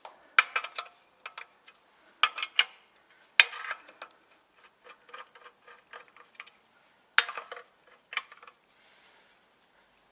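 Metal tools and parts clinking and clanking together: a handful of sharp metallic clanks a second or more apart, with lighter rattling between them.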